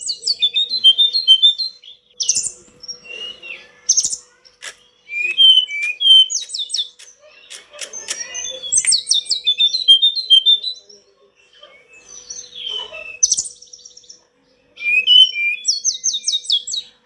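A tledekan gunung songbird singing in bursts of rapid, high, whistled and trilled phrases with short pauses between them. A faint steady hum lies underneath.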